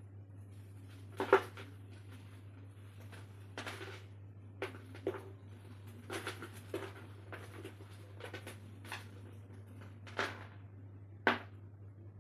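Clumps of dry red dirt being crumbled and crushed: irregular crackly crunches, the sharpest about a second in and near the end. A steady low electrical hum runs underneath.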